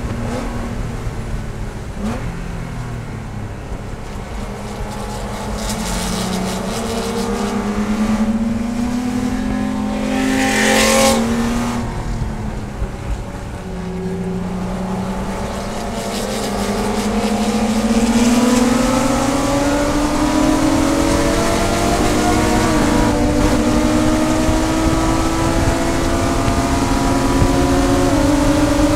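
Race car engine heard from inside the cockpit: its pitch falls as the car slows for a corner and downshifts, then climbs steadily as it accelerates out, shifting up a gear a few seconds before the end. A brief hissing burst comes about eleven seconds in.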